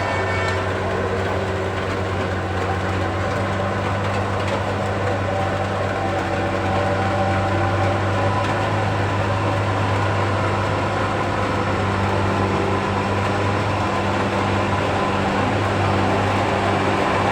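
Heavy trucks' diesel engines running under load on a steep uphill grade: a steady low drone over road and engine noise, with no change in pitch.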